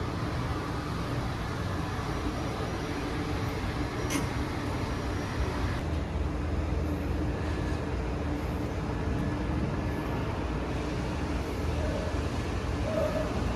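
Steady low rumble of vehicle engines running without revving, with one sharp click about four seconds in.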